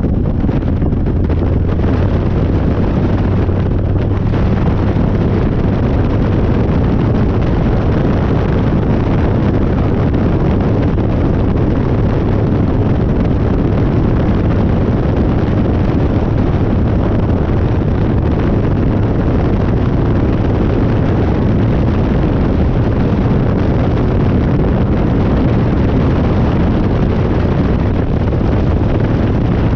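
Harley-Davidson Dyna's V-twin engine running under way on a ride, its low note shifting slightly with throttle, with wind buffeting the microphone.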